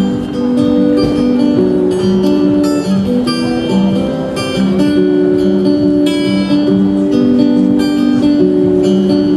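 Acoustic guitar playing the instrumental intro of a pop song, steady chord notes changing about every half second.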